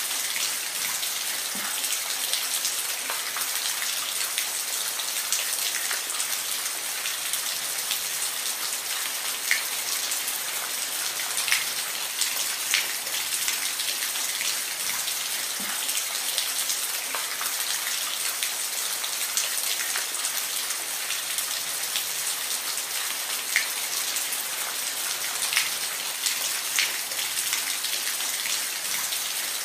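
Steady rain falling, a continuous hiss with scattered individual drops ticking sharply on a nearby surface.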